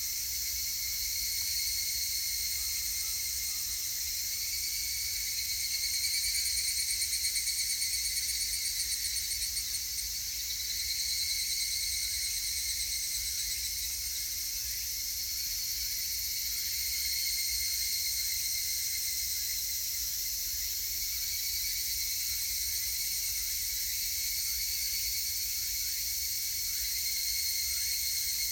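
Higurashi evening cicadas (Tanna japonensis) calling in a continuous high, ringing chorus that swells and fades several times, loudest about six to ten seconds in.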